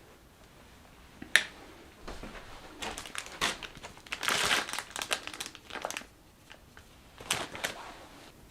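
Crinkling, rustling handling noise in irregular bursts, with a sharp tap about a second in and the loudest stretch of crinkling in the middle.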